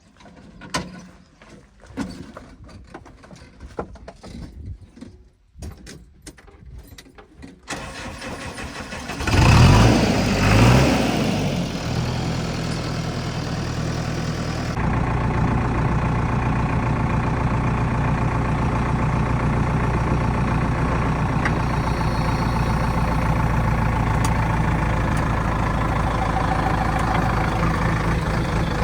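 A few faint scattered knocks and clicks, then about nine seconds in a diesel engine starts, revs briefly with a rising pitch, and settles into steady running.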